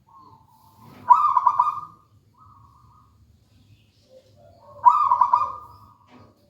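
Zebra dove (perkutut) cooing: two loud, rapidly pulsing coo phrases, about a second in and again near five seconds, with softer coos between them.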